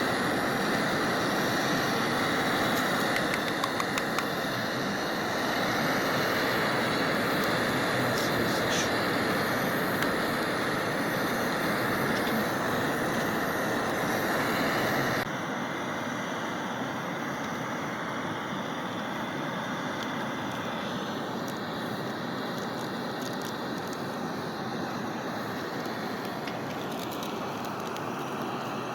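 A pot of water boiling over the fire with noodles just dropped in: a steady rushing noise with a few faint clicks, which drops suddenly in level about halfway through.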